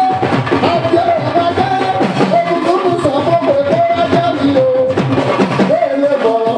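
Live Fuji band music: a melody holding and stepping between notes over dense, driving drums and percussion.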